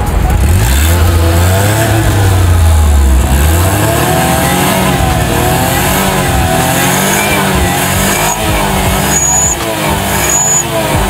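Suzuki Scrum mini truck's engine running, heard close to the exhaust. It is revved in one long rise-hold-fall over the first few seconds, then keeps rising and falling in shorter repeated revs.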